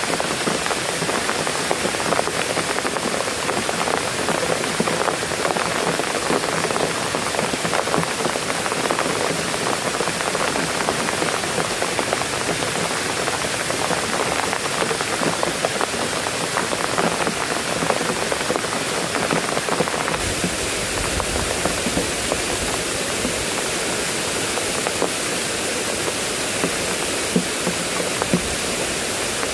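Heavy rain falling steadily, a dense hiss full of fine drop ticks. About two-thirds of the way through it shifts abruptly to a steadier rush with a deeper rumble.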